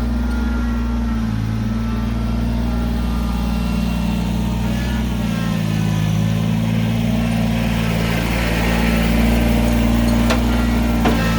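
An engine running steadily, its pitch shifting slightly, with a couple of sharp clicks near the end.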